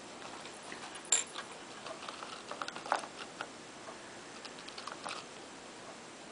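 A budgie rummaging in a bowl of spinach leaves: scattered light rustles and small clicks, the sharpest about a second in and again near three seconds.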